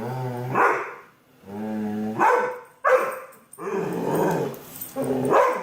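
A dog making a series of drawn-out, growly howling vocalizations, one about every second. Each call starts low and held, then breaks upward into a higher yowl.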